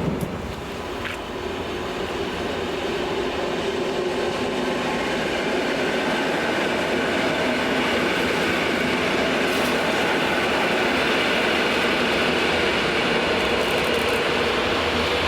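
Electric train running, a steady rail rumble with a faint steady whine over it.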